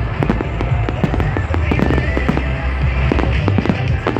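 Fireworks display: a dense run of bangs and crackles over loud music with a heavy bass.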